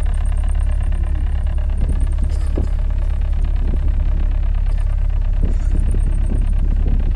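A boat's engine running steadily, with a heavy continuous low rumble.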